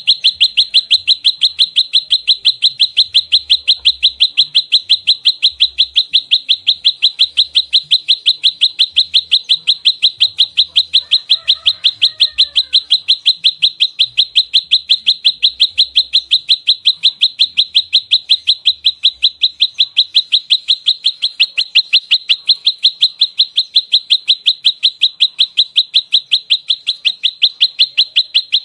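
Prenjak lumut (a small prinia-type songbird) in fighting mode, firing an unbroken rapid series of sharp, high chip notes, about four to five a second, at an even pace.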